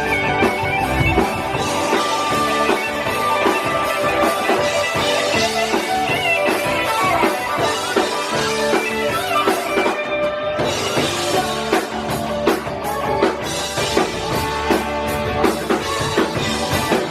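Live rock band playing an instrumental passage, with guitars and drum kit and no singing.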